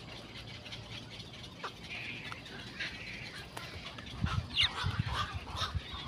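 Birds calling in a tree: faint scattered chirps, then from about four seconds in a louder run of low, harsh croaking calls with a short falling whistle among them.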